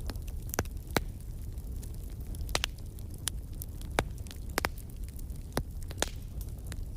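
Wood fire burning in a fireplace: a steady low rumble of flames with irregular sharp crackles and pops, about one a second.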